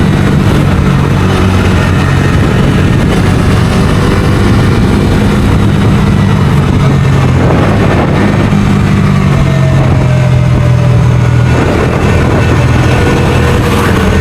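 Bajaj Dominar 250's single-cylinder engine running under way, heard from the rider's position with road and wind noise. Its note holds steady, then shifts a few times.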